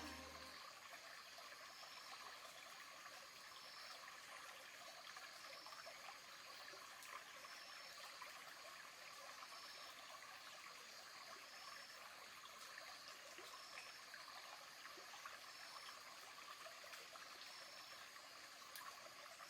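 Faint forest ambience: a steady low hiss, with a short high call repeating about every one and a half seconds.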